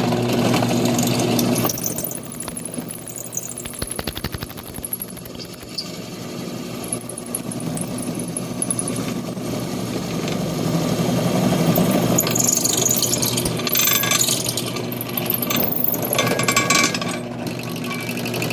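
Electric grinder running and grinding down a weld on an aluminum mini bike peg: a steady motor hum under a harsh grinding noise, with stretches of sharper, louder scraping in the second half as it bites into the metal.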